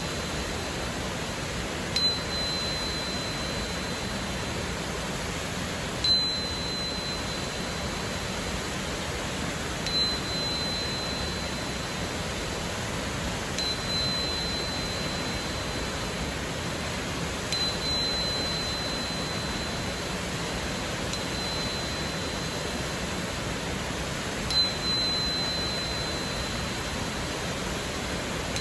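A 4096 Hz crystal tuner struck about every four seconds, seven times, each strike a clear high pure tone that rings on and fades over steady rushing waterfall noise.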